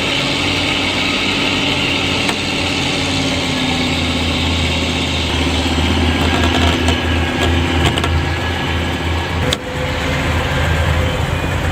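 Heavy truck's diesel engine running steadily with a deep, even drone.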